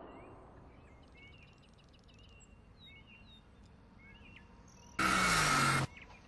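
Birds chirping with short, scattered calls over faint outdoor background noise. About five seconds in, a sudden loud noise lasts just under a second, with a falling low tone in it, and cuts off sharply.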